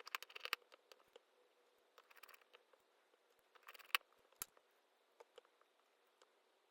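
Small repair tools and parts of a disassembled smartphone being handled up close: quiet clusters of light clicks and ticks, with one sharper click about four seconds in.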